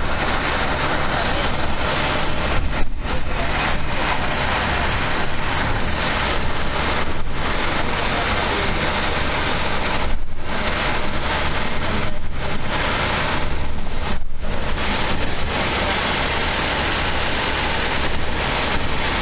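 Passenger train running at speed, heard from inside the carriage: a steady rushing noise of wheels on track and air going past, which dips briefly a few times.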